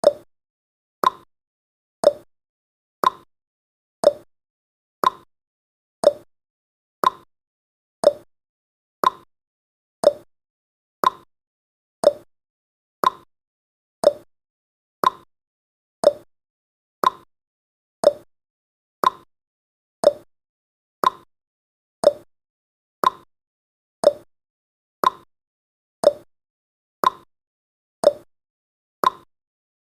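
Countdown timer's clock-tick sound effect: a short, sharp tick once every second, evenly paced, with silence between the ticks.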